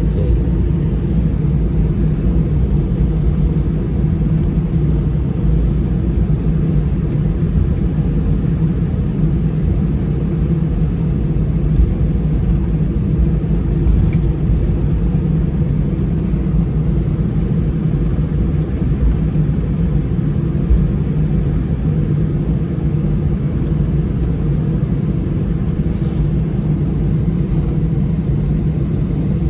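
Steady low rumble inside the cabin of an Airbus A319 on the ground after landing, its engines running at idle.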